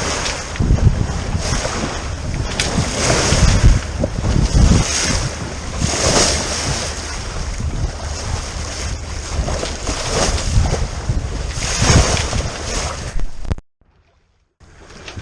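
Water rushing and splashing along a sailing yacht's hull, with wind buffeting the microphone in irregular gusts. The sound cuts out abruptly near the end for about a second, then resumes.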